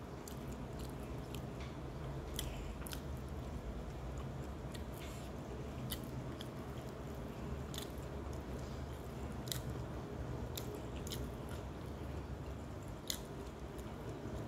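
Close-up eating sounds: a person chewing a mouthful of rice and side dishes, with wet mouth clicks and smacks every second or two. A steady low hum runs underneath.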